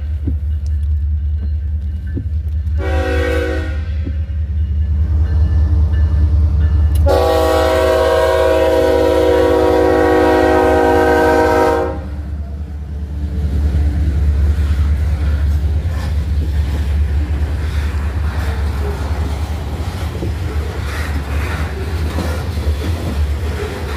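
Canadian Pacific diesel freight locomotive sounding its air horn as it passes close by: a short blast about three seconds in, then a long blast of about five seconds, over the steady low rumble of the engine. After the horn stops, the grain hopper cars roll past with wheels clattering over the rail joints.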